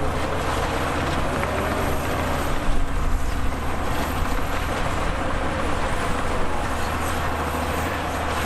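Heavy diesel engine of earthmoving machinery running steadily under load, with a brief surge in level about three seconds in.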